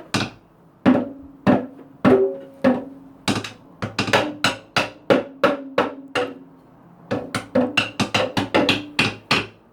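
A child hitting a toy percussion instrument with a stick: irregular strikes, each ringing briefly, with a quicker run of hits about seven seconds in.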